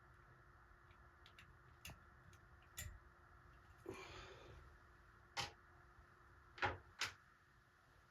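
Sparse sharp clicks and light knocks, about six of them spread over several seconds, from small tools and parts being handled during repair work on a ceiling fan's pull chain switch. A brief scrape or rustle falls about four seconds in, over a faint steady hum.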